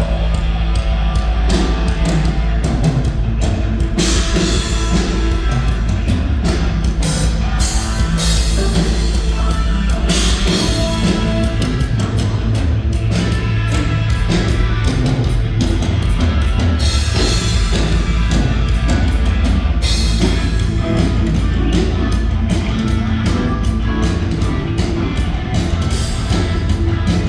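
A rock band playing loud and steady during a sound check, with rapid drum-kit hits over sustained low instruments.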